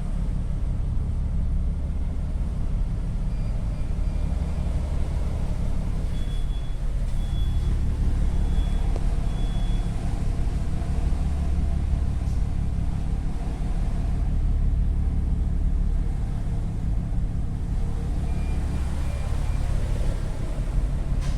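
Steady low rumble of a ferry's engines under way, with the rush of wind and water. A few faint, short, high beeps are heard in small runs: four spaced beeps in the middle and short runs near the start and end.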